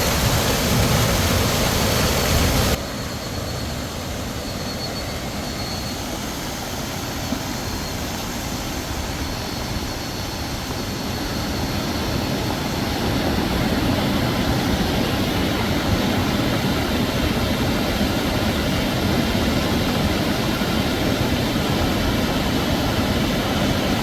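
Heavy storm rain falling steadily as a dense hiss. It drops abruptly about three seconds in, then slowly builds back up.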